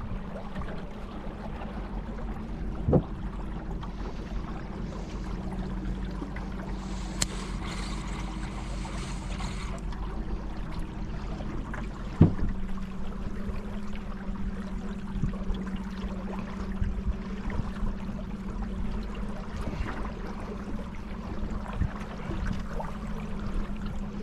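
River water trickling and splashing around a kayak on the Colorado River, with a steady low hum beneath. Two sharp knocks come about three seconds in and again near the middle.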